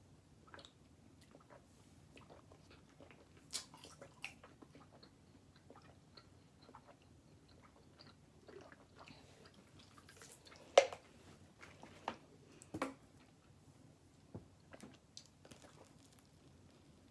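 Pizza being chewed close to the microphone: quiet mouth sounds with scattered small clicks. A sharp knock comes about eleven seconds in, and two lighter ones follow shortly after.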